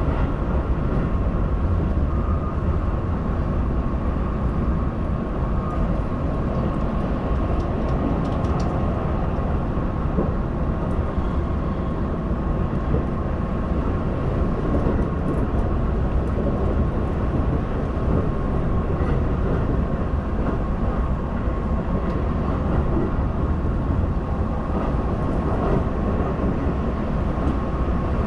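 Running noise heard inside a Keihan limited express train at speed: a steady rumble of wheels on rail, with a thin steady tone above it.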